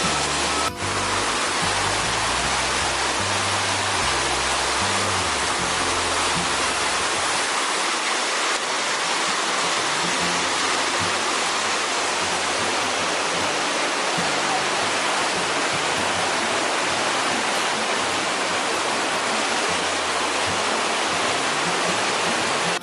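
Waterfall, a steady loud rush of falling water, with background music faintly underneath.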